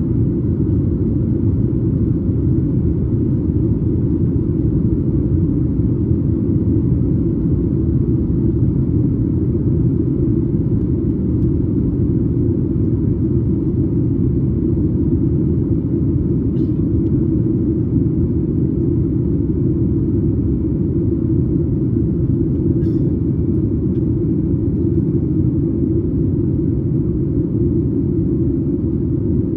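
Steady low rumble inside the cabin of a Boeing 737 MAX 8, the engine and airflow noise heard from a window seat just behind the wing, with a couple of faint clicks.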